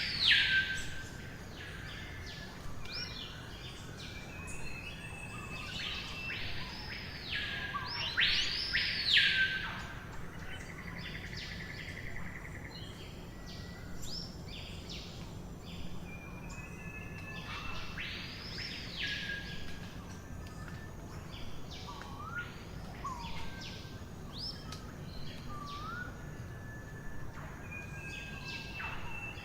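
Birds singing and calling: loud sweeping calls that rise and fall, a few seconds apart, among thin high whistles and short chirps, over steady low background noise.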